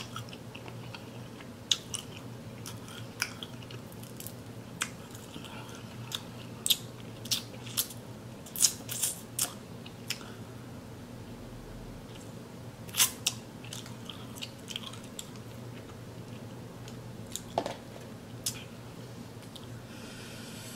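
A person chewing and eating boiled shrimp close to the microphone, with scattered short wet mouth clicks and crunches. A steady low hum runs underneath.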